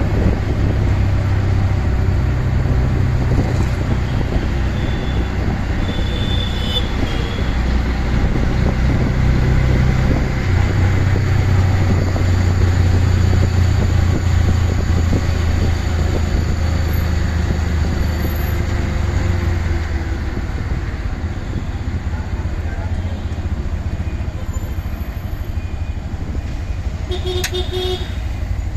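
Auto-rickshaw engine running steadily under way, heard from the passenger seat as a low drone with road and traffic noise. Short horn toots sound about six seconds in and again near the end.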